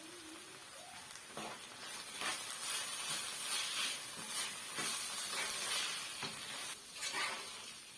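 Food sizzling as it fries in oil in a pan, stirred with a utensil that scrapes the pan several times.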